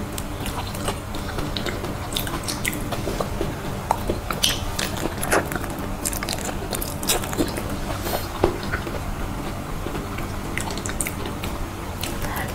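A person eating soft, creamy durian flesh: biting and chewing, with many short, irregular mouth clicks.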